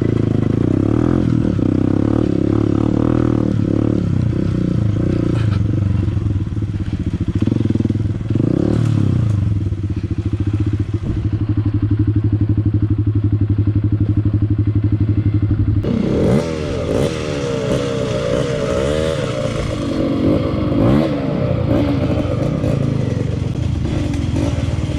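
Honda CRF150L's single-cylinder four-stroke engine running on a trail, with knocks and rattles in the first part. Midway it holds a steady pitch for a few seconds, then revs up and down repeatedly near the end.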